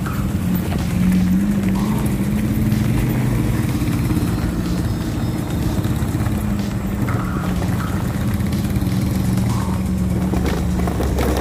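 A 1994 Daihatsu Feroza driving, its engine running steadily at a road speed, with music playing over it.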